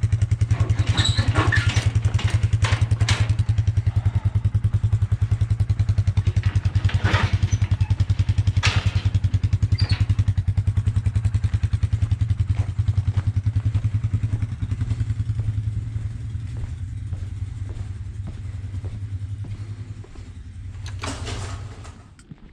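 Quad ATV engine running steadily, with some clattering knocks in the first half. It fades over the last several seconds and cuts off near the end.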